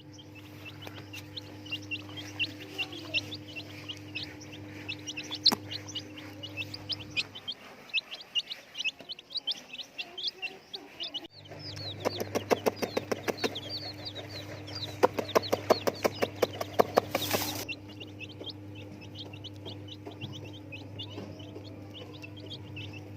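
A group of chicks peeping, a dense stream of short, high cheeps overlapping one another, over a steady low hum that drops out for a few seconds partway through. In the second half a fast run of sharp clicks or taps sounds among the peeps, ending in a short hissy burst.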